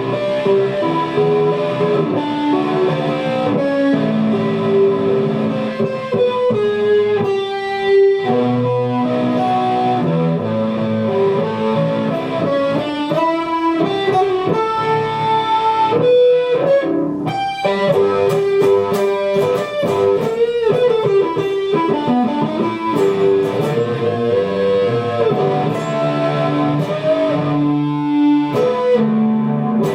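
Electric guitar music: a melodic lead line picked over a steady backing.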